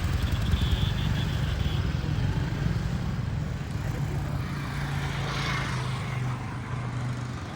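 Road traffic: vehicles running with a steady low rumble, and an engine hum coming in about five seconds in.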